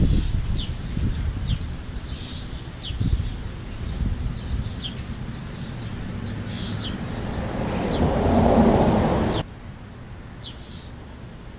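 Small birds chirping outdoors: many short, high, falling chirps over a low rumble of wind or background noise. The rumble swells near the end and cuts off suddenly, leaving a few quieter chirps.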